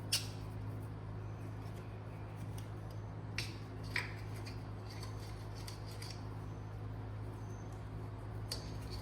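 A few light metallic clicks and taps from metal parts, bushings and a bolt, being handled and fitted, over a steady low hum.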